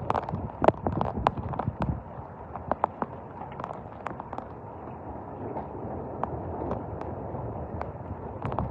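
Severe thunderstorm: strong wind gusts buffeting the microphone over steady rain noise, with many sharp, irregular taps and ticks of impacts on nearby surfaces. The gusts ease in the middle and build again near the end.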